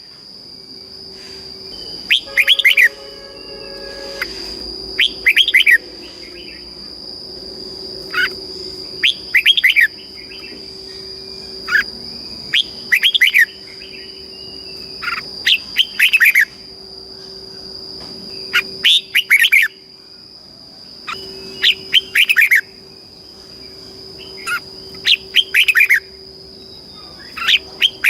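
Red-whiskered bulbul singing: short, loud, whistled phrases repeated every second or two, over a steady high-pitched whine.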